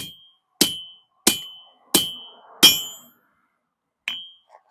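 Blacksmith's hammer striking steel on an anvil: five evenly spaced blows about two-thirds of a second apart, each with a short metallic ring, then one more after a pause.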